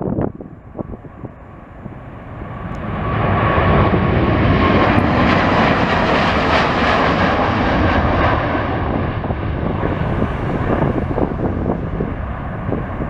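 Jet airliner passing close, its engine noise building over a couple of seconds to a loud, steady peak, then slowly fading, with a whining tone during the approach.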